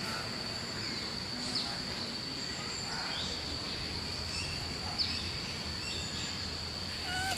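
Outdoor countryside ambience: insects keep up a steady high-pitched drone while a bird gives short falling chirps about every three seconds, over a low steady noise.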